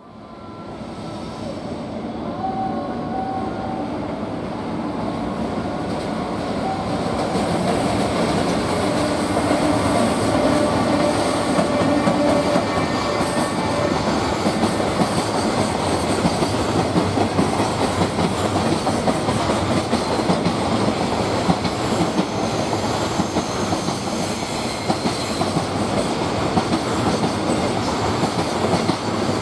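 JR Freight EF210 electric locomotive and its long train of container wagons going past; the steady clatter of the wagons' wheels on the rails swells over the first several seconds and then holds.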